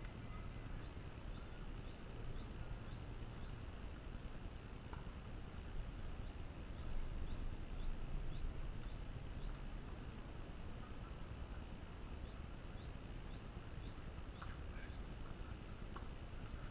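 Open-air court ambience with a low wind rumble on the microphone. A bird repeats a short, rising, high chirp about three times a second in several runs, and a few faint knocks of tennis balls being hit come through now and then.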